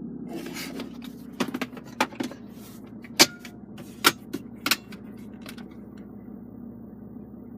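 A series of sharp clicks and knocks, about half a dozen in the first five seconds, as the car's centre-console fittings are handled, over a steady low hum.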